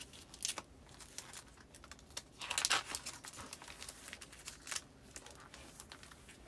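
Postcards and paper goods being handled and filed: crinkling and rustling with many small sharp clicks and taps. A denser, louder burst of crinkling comes about two and a half seconds in.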